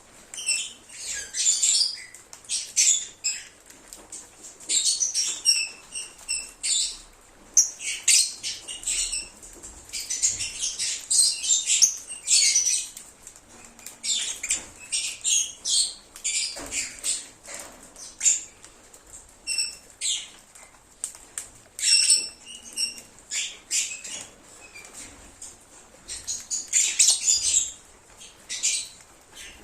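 A flock of lovebirds chirping and chattering: rapid, shrill high-pitched chirps in irregular bursts throughout, with brief pauses between bursts.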